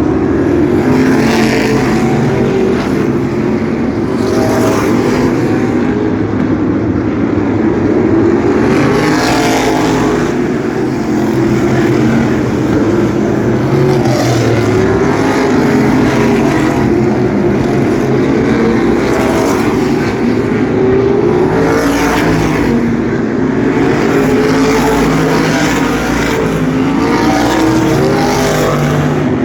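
A field of asphalt sprint cars running laps together, several engines overlapping in a steady drone whose pitch wavers up and down, with a swell each time a car passes close by, every few seconds.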